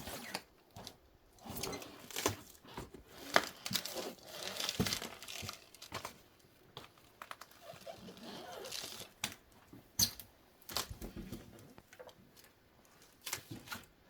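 Irregular crinkling and rustling with scattered sharp clicks and knocks, as material is handled.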